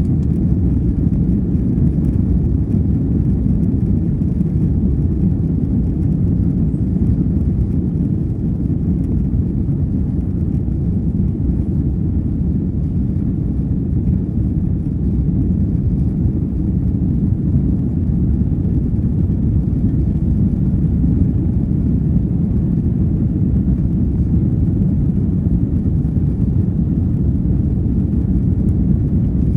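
Airbus A330-200 airliner cabin noise: a steady low rumble of the jet engines and airflow, heard from inside the cabin, with no distinct events.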